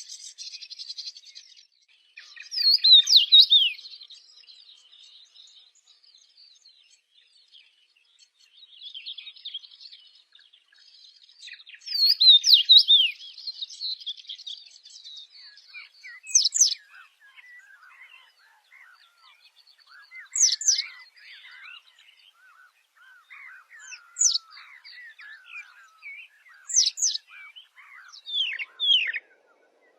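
Songbirds singing: a couple of fast warbling phrases, then loud, sharp downward-sweeping whistles repeated every few seconds, with softer chirps in between.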